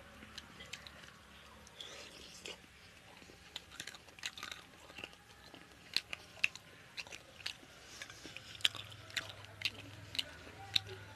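Close-miked chewing and mouth smacks of a man eating chicken curry and rice, a string of short sharp clicks that grows busier in the second half.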